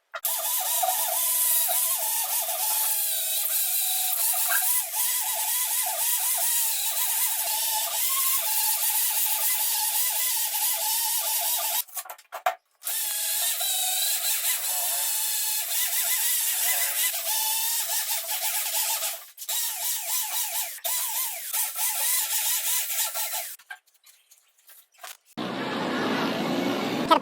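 A small power tool runs steadily, with a wavering whine whose pitch shifts as it works against the material. The sound breaks off abruptly a few times, and a different, lower sound takes over near the end.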